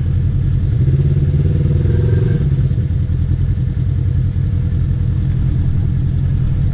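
Polaris RZR side-by-side's engine running at low speed with a steady low rumble. The revs rise briefly about a second in and settle again.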